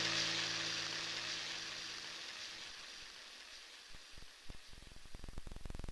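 The last notes of the background music fade out into a faint hiss. A few sharp clicks come about four seconds in and quicken into a rapid crackle of static near the end.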